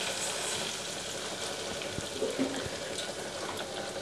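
Crushed ginger-garlic paste and green chillies sizzling steadily in hot groundnut oil in a stainless pressure cooker, with a few faint crackles, while the paste is sautéed until its raw smell cooks off.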